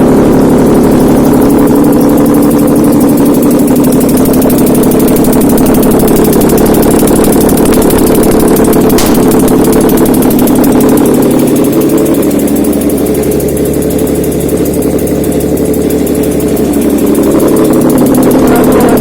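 Toyota 2GR-FE 3.5-litre V6 running steadily on an engine test stand, easing off a little for a few seconds past the middle before settling back.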